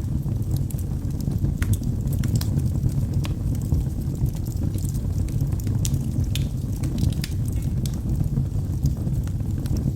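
Logs burning in a fireplace: a steady low rumble of the fire with irregular sharp crackles and pops, several a second.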